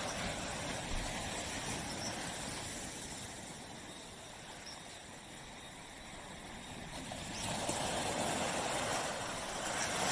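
Small tropical waves washing onto a beach: a surf hiss that fades away in the middle and builds again near the end as the next wave comes in.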